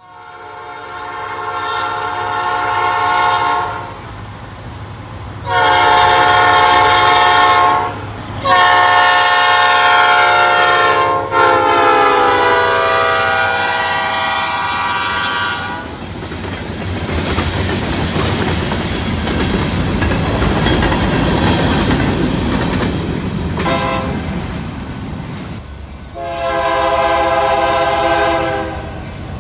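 Freight locomotive sounding its multi-note chime horn in long blasts for a road crossing, the pitch dropping as it passes about 11 seconds in. Rumble and clatter of the locomotive and cars follow, then a short and a long horn blast near the end.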